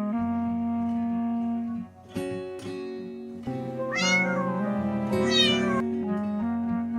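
A cat meowing twice over background music, the first meow about four seconds in and a second, longer one a second later.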